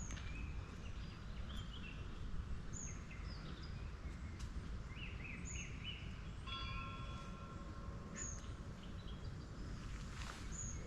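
Birds singing and calling over a steady low rumble: short high chirps and trills, one brief high note repeating about every three seconds, and a pair of held whistles about six seconds in.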